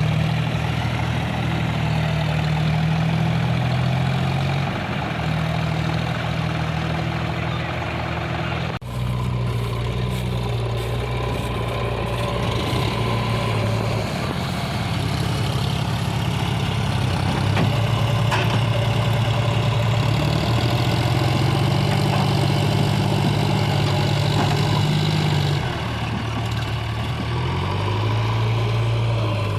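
Heavy diesel engine running near idle, its note shifting up and down a few times. About nine seconds in, the sound cuts abruptly to another stretch of engine running.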